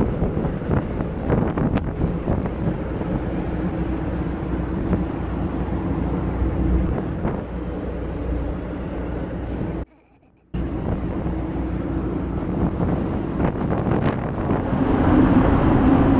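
Wind buffeting the microphone over the steady low rumble of a ferry under way. The sound drops out briefly to near silence about ten seconds in.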